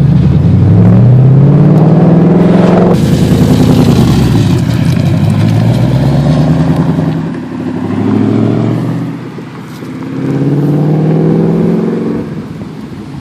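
2013 Ford Mustang GT's 5.0-litre V8 through aftermarket Flowmaster Outlaw mufflers with stock catalytic converters, accelerating hard. The pitch climbs, drops at each of several upshifts, climbs again, then fades away near the end.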